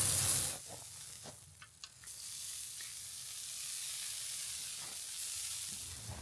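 Steaks sizzling on a Skottle camp griddle. The hiss is loud at first, then drops off sharply about half a second in. A few light clicks follow, and a fainter steady sizzle carries on.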